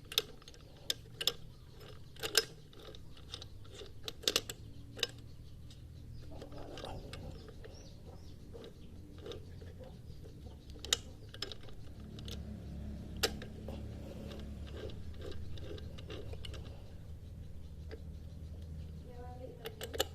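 Scattered sharp clicks and light knocks, irregular and denser in the first few seconds, over a low steady hum that grows louder about twelve seconds in.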